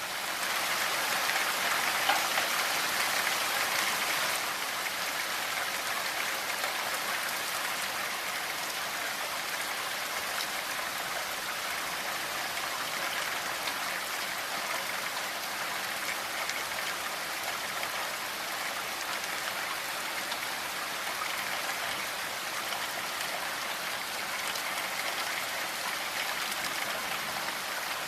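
Steady rainfall: a dense, even hiss of falling drops, a little louder for the first few seconds and then unchanging.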